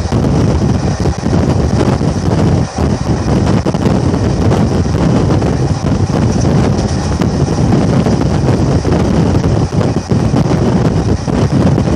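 Wind buffeting a microphone held out of a moving passenger train coach, over the steady rumble of the coach's wheels on the track.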